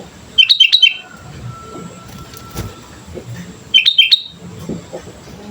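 Sooty-headed bulbul singing: two short, loud phrases of a few quick whistled notes each, about three seconds apart.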